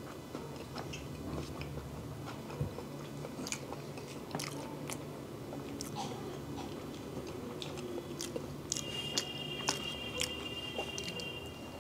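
Close chewing and biting of mouthfuls of peeled hard-boiled egg, with small wet mouth clicks. A faint, steady high tone sounds for a couple of seconds near the end.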